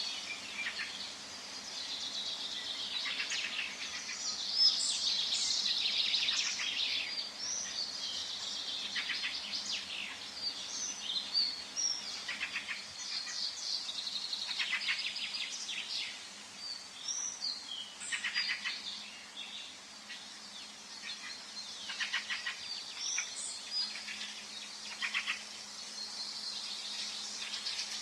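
Several forest birds calling and singing at once: overlapping chirps, whistles and rapid trills throughout, over a faint steady low hum.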